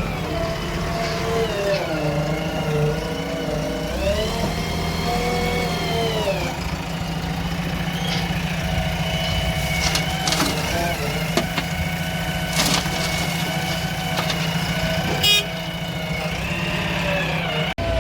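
Diesel engine of heavy loading machinery running steadily, its pitch rising for about two seconds a few seconds in and then dropping back, with a few sharp clanks in the second half.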